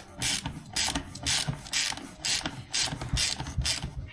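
Ratchet wrench tightening the fork's top cap, its pawl rasping on each back-stroke, about two strokes a second.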